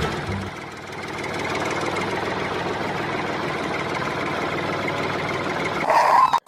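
Tractor-style engine idling steadily with a fast, even knock, after background music stops about half a second in.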